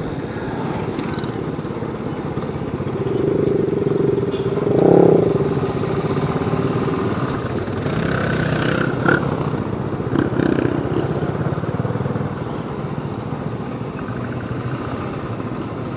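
Motorcycle engine running at low speed as the bike rolls along, heard from the rider's own machine with wind noise on the microphone; the engine note swells briefly about five seconds in.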